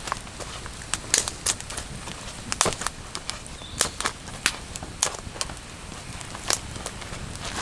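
Campfire crackling: irregular sharp pops, one or two a second, over a steady hiss.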